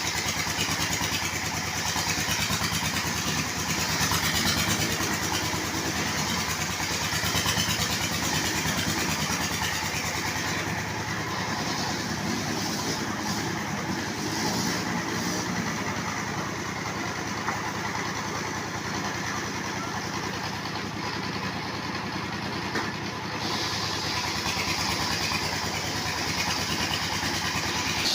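Engine of a wood-cutting sawmill running steadily, with a high hiss over it that thins out for about twelve seconds midway.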